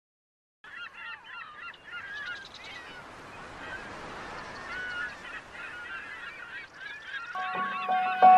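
A flock of birds calling, many short overlapping calls. Music with held tones fades in near the end.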